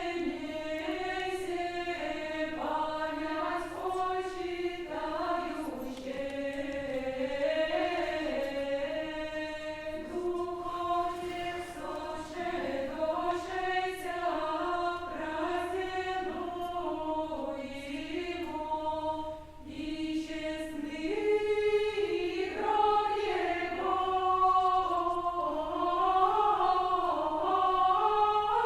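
Unaccompanied choir singing a slow, chant-like melody with held notes, growing louder in the last third.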